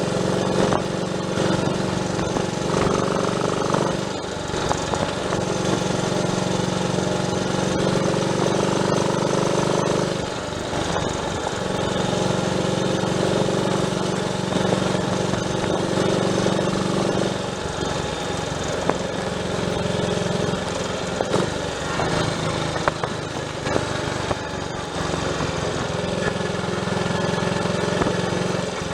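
Triumph Tiger Cub's single-cylinder four-stroke engine running on the road, its misfire fixed. The note drops and picks up again several times.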